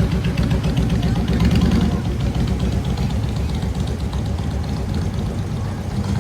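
A car engine idling with a rapid, even low pulse, a little louder for the first two seconds.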